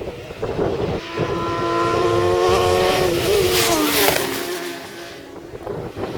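Racing motorcycle approaching and passing at speed, its engine note building, then dropping in pitch as it goes by about four seconds in, and fading away.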